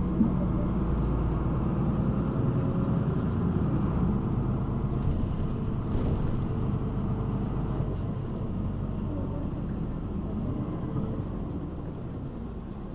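City bus running, with steady engine and road rumble that gets somewhat quieter toward the end.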